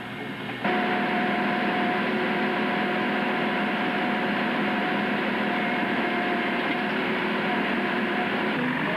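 Diesel engine of a JCB-type digger running steadily, coming in suddenly under a second in.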